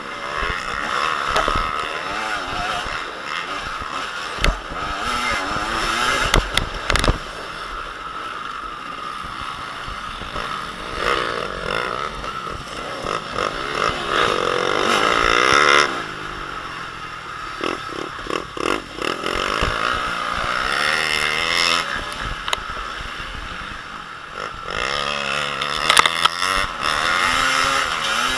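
Motocross motorcycles racing on a dirt track, engines revving up and falling back over and over as riders accelerate and shift, with several bikes overlapping at times. A few sharp knocks stand out, around the seventh second and near the end.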